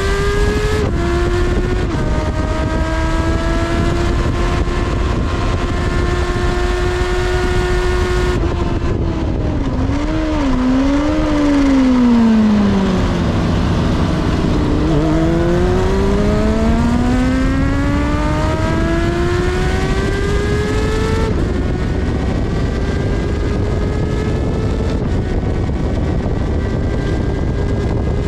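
Kawasaki ZXR400 inline-four engine at high revs under hard riding, shifting up twice near the start and then holding high revs. About eight seconds in the throttle closes and the revs fall through several blipped downshifts into a corner, then climb steadily under acceleration to an upshift about two-thirds through, with a steady rush of noise underneath.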